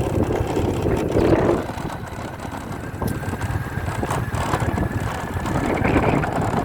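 Motorcycle on the move: its engine running steadily with wind buffeting the microphone.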